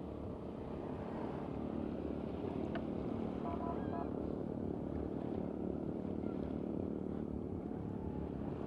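A motor running steadily at an unchanging pitch, a low even hum over a background rumble.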